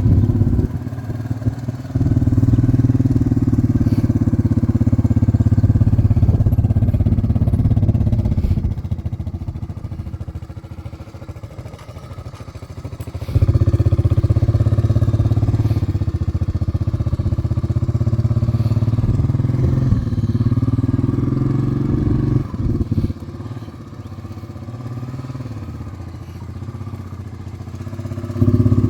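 1992 Honda 300 Big Red 2x4 quad bike's single-cylinder four-stroke engine running as the bike is driven. It grows louder and fades twice as the quad moves away and comes back, with a brief drop in engine note a little past the middle.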